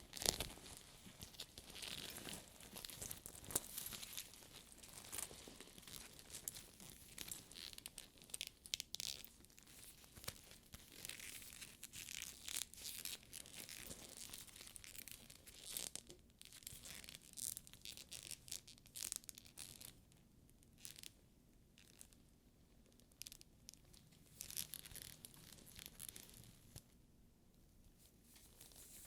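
Hands rubbing and handling a sticky faux leather purse, fingers peeling off its tacky surface with dense crackling. The crackling thins out and grows quieter about two thirds of the way through.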